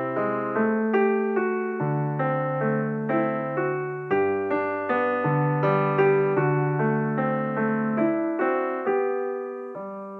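Background piano music, a gentle melody of single notes over low chords, with a new note struck about every half second and each note fading.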